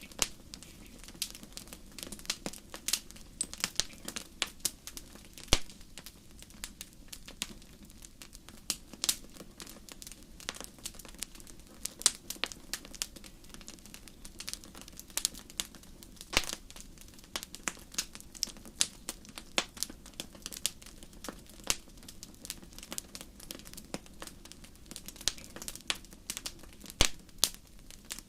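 Wood fire in a fireplace crackling: irregular sharp pops and snaps, several a second, over a low steady hiss of burning.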